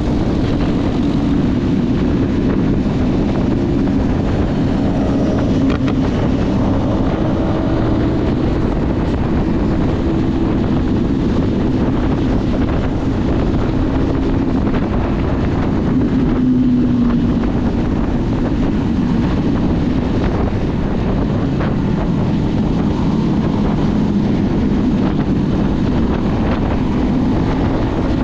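Motorcycle ridden at a steady cruising speed: a steady engine drone under heavy wind buffeting on the microphone.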